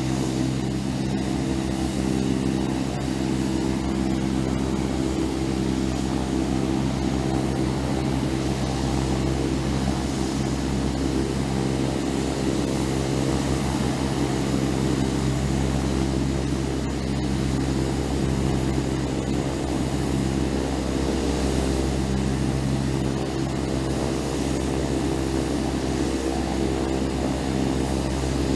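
Propeller airplane's piston engine running steadily at a constant speed, with an even, unchanging hum.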